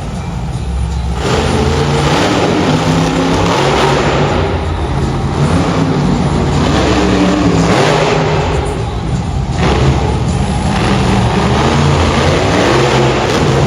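Monster truck engine revving and running loud, its pitch rising and falling as the throttle is worked.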